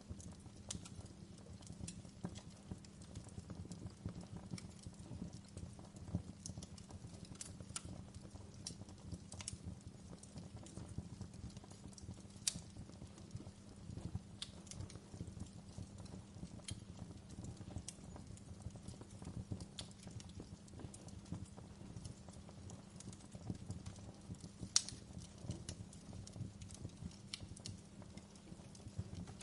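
Wood fire crackling in a fireplace: a steady low rumble of burning under irregular small pops and snaps, with two louder pops, about twelve seconds in and near twenty-five seconds in.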